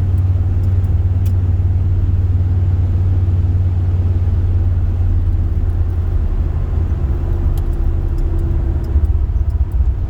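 Car being driven on snow-covered streets: a steady low rumble of engine and road noise, a little rougher near the end.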